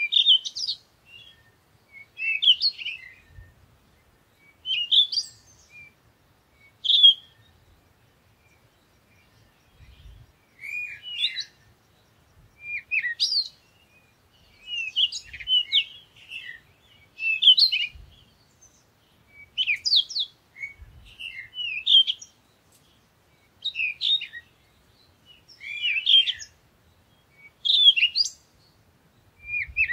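Small birds chirping: clusters of short, high twittering notes, one every second or two, with brief quiet gaps between.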